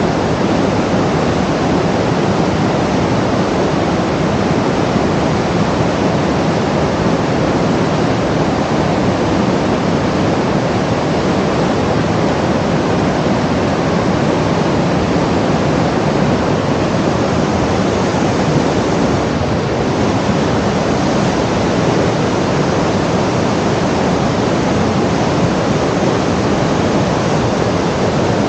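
Loud, steady rushing noise that stays even throughout, with no tones or clicks in it.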